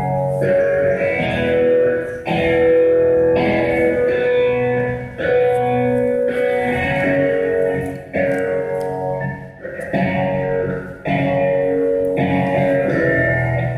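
Instrumental rock intro: electric guitar with an effect playing sustained chords, a new chord about every second or two, with no singing.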